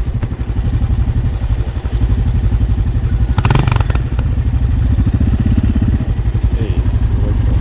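Shineray XY250GY-6B enduro motorcycle engine running with a steady low pulse, and a short burst of clattering about three and a half seconds in.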